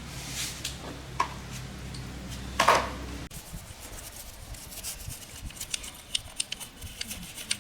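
Metal parts and hand tools clinking and tapping during workshop repair work, over a low steady hum that cuts off about three seconds in. After that come many small, quick taps.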